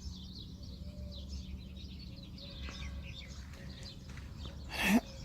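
Small birds chirping and twittering, many short high calls, over a steady low rumble. Near the end one louder call falls in pitch.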